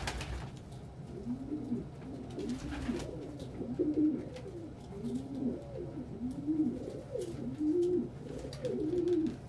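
Domestic pigeons cooing: a continuous run of low, rising-and-falling coos, several overlapping one another.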